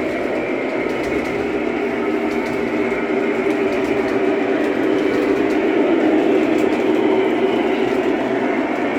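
A train running: a steady rumble with faint scattered clicks, swelling a little in loudness partway through.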